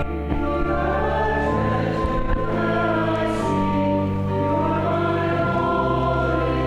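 Congregation singing a hymn together with organ accompaniment, in slow held chords.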